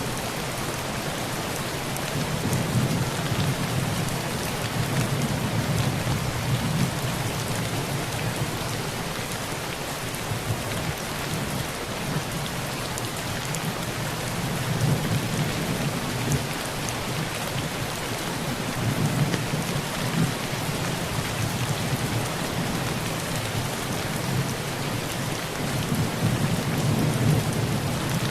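Heavy rain pattering steadily on a tin roof, with low thunder rumbling up and fading several times, swelling around the start, through the middle and again near the end.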